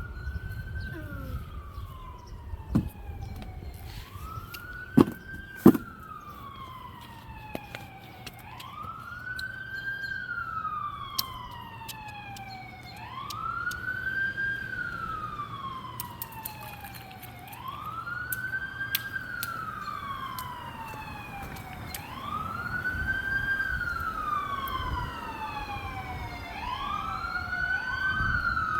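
Emergency vehicle siren in wail mode: its pitch rises quickly and falls slowly, about once every four seconds, and grows a little louder toward the end. Three sharp knocks sound near the start.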